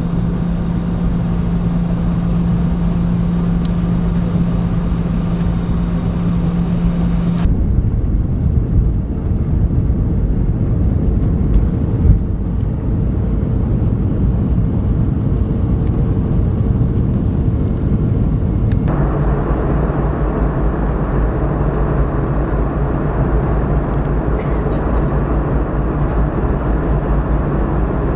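Steady low rumble of a running vehicle, with a steady hum in the first part. The sound changes abruptly about a quarter of the way in and again about two-thirds of the way in.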